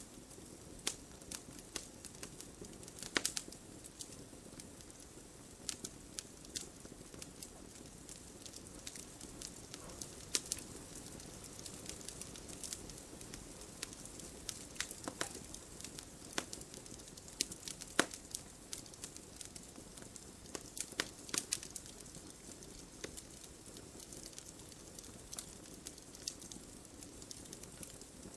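Campfire crackling, with irregular sharp pops over a steady low hiss; the loudest pops come about three seconds in and about eighteen seconds in.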